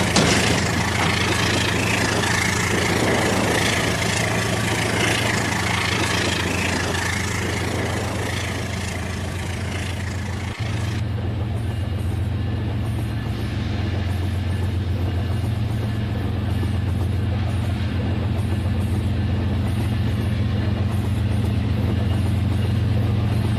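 Rail King battery-powered toy train running: a steady mechanical hum from its small motor and gears, with a fine rapid clatter from the wheels on the track. The higher hiss drops away suddenly about eleven seconds in.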